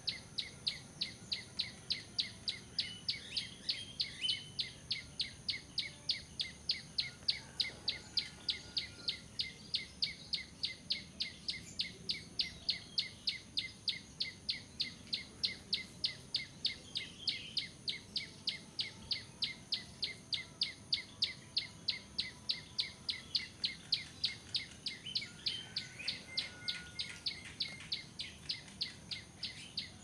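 Bar-winged prinia (ciblek) calling: a sharp high chip repeated evenly about three times a second without a break. A steady high insect drone runs underneath.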